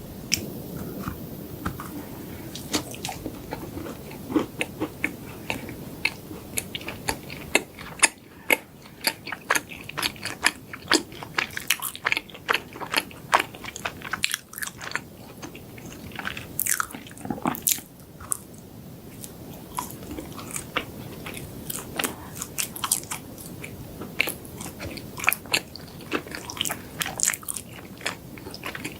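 Close-miked biting and chewing of chocolate desserts, with many irregular crisp crunches and mouth clicks, several a second.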